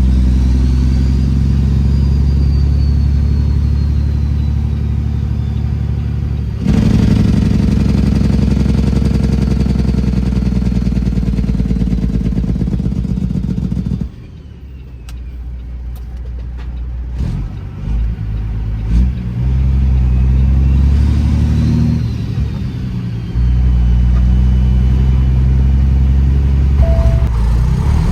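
Straight-piped Detroit Series 60 diesel in a Peterbilt 389 glider truck, running under load with a turbo whistle rising and falling above the exhaust note. The engine gets louder about a quarter of the way in, drops away suddenly about halfway, and comes back steady and loud near the end.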